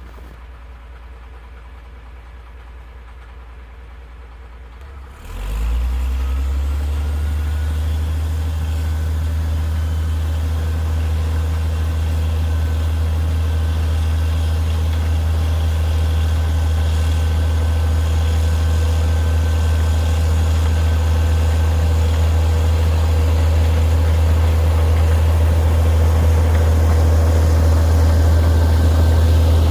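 Caterpillar D6D bulldozer's diesel engine running after a cold start. It runs low and steady, then about five seconds in it speeds up with a brief rise in pitch, becomes much louder, and settles into a steady run.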